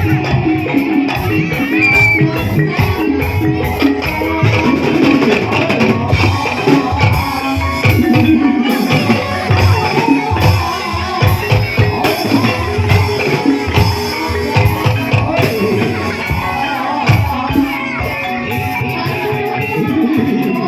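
Live ebeg dance accompaniment music: drums and struck percussion playing a steady, busy beat under sustained pitched instrument tones.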